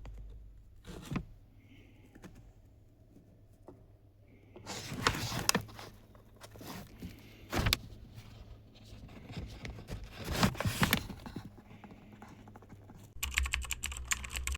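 Light clicks and rattles of small hard parts being handled, in several short bursts, ending in a run of rapid clicking.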